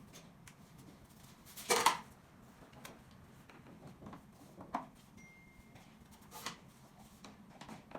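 Scattered light clicks and knocks from handling SPC stone-plastic floor planks, with one louder, brief scraping knock just under two seconds in.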